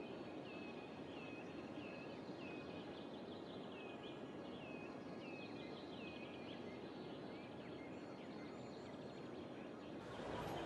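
A small bird chirping repeatedly, short hooked notes about twice a second, over a steady outdoor noise haze. The chirps fade out after about seven seconds, and near the end the background noise grows louder and deeper.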